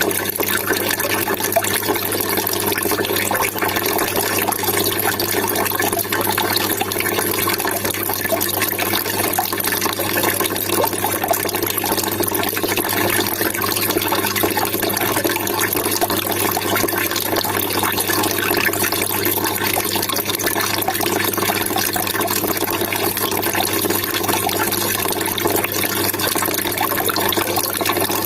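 Water trickling and splashing steadily, a continuous babbling-water sound, with a faint steady low hum beneath it.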